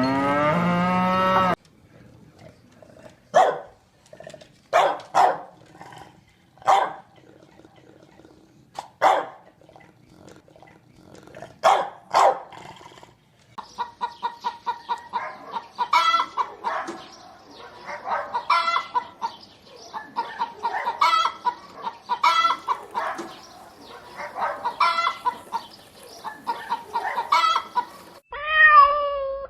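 Chickens clucking. At first the clucks come one at a time, every second or two; from about halfway through they run together into busy, continuous clucking.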